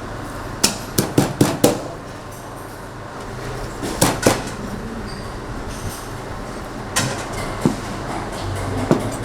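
Cleaver chopping on a chopping block: a quick run of five sharp chops about a second in, then pairs and single chops every few seconds, over a steady kitchen hum.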